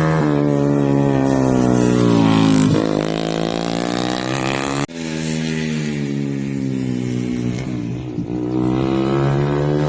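Racing motorcycle engines running hard at high revs, the pitch dipping sharply twice as the throttle is shut or a gear is changed, then climbing again.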